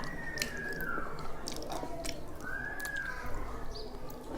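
Close-miked chewing and biting of food, with scattered wet clicks of the mouth.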